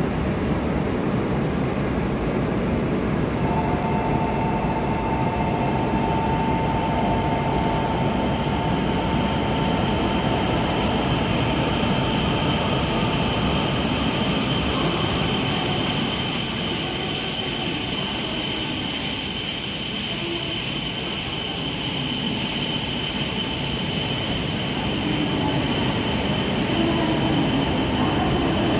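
E5/E6 Shinkansen train running: a steady rumble that slowly grows louder, with thin, steady high-pitched whines over it.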